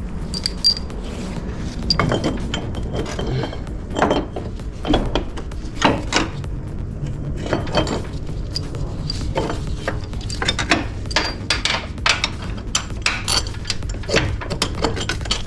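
Irregular metallic clinks, knocks and scrapes of hand tools and engine parts being handled during engine reassembly, over steady background music.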